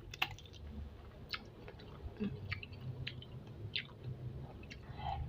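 Close-miked chewing of spicy chicken feet: wet mouth sounds broken by irregular, sharp little clicks.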